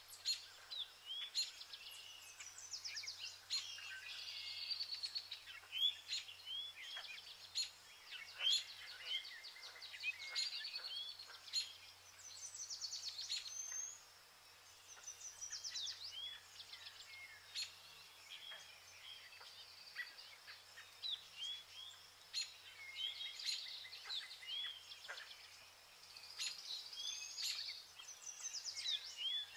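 Several songbirds singing, a busy mix of chirps, whistled notes and rapid trills that keeps going throughout.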